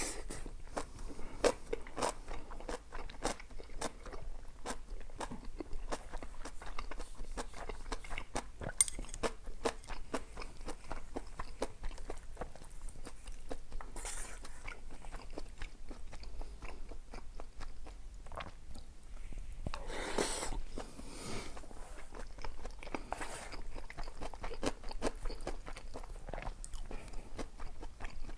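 Close-miked chewing and crunching of food: a steady run of wet mouth clicks and bites, with a few sharper crunches.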